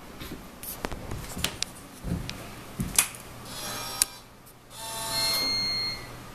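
Scattered clicks and knocks, then two short electric whirs, the second about a second long, from a 1995 Yamaha VMX-1200 V-Max being readied to start.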